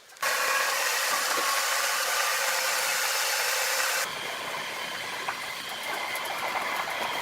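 Steady running noise of sawmill machinery. About four seconds in it switches abruptly to a different, somewhat quieter machine noise.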